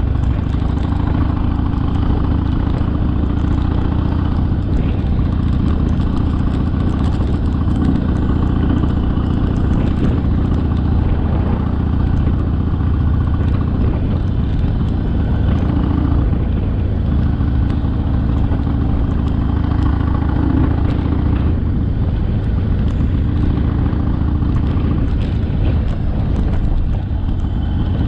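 Harley-Davidson Sportster's V-twin engine running steadily on the move, a continuous low rumble with no breaks.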